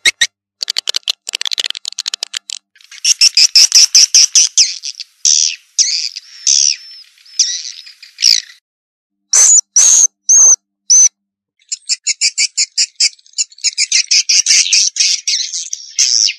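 Swiftlet lure-call recording: edible-nest swiftlets twittering in fast trains of short, high chirps, with a brief pause and four separate sharp chirps about ten seconds in before the rapid chirping resumes.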